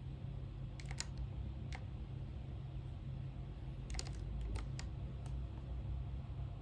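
A few scattered keystrokes on a computer keyboard, in short irregular clusters, over a steady low hum.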